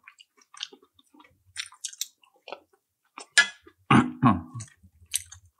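A person chewing food close to the microphone, with many short wet mouth smacks and clicks. About four seconds in there is a brief low hum of the voice.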